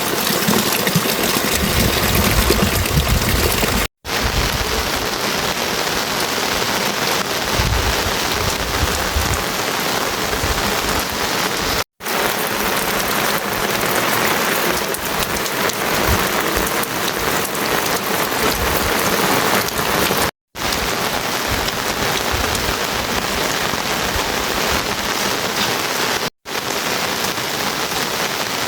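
Steady heavy rain falling, an even loud hiss with some low rumble underneath, dropping out for an instant four times.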